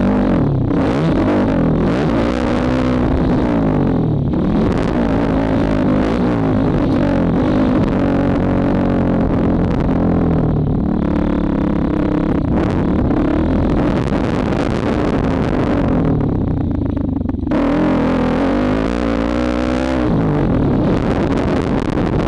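2004 Honda CRF450R four-stroke single-cylinder motocross engine revving hard under the rider, its pitch rising and falling over and over as the throttle opens and closes.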